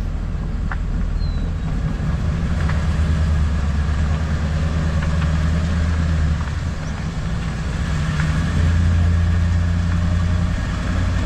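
Engine and road noise heard from inside a moving vehicle's cab: a steady low drone that swells a little about three seconds in and again near nine seconds.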